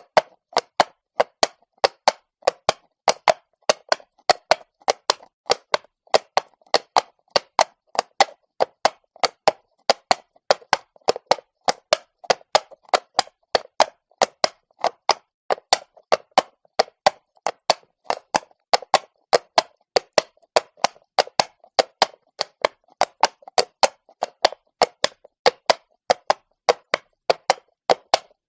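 Horse's shod hooves walking on stone, a steady run of sharp clops, about three to four a second in an uneven walking rhythm.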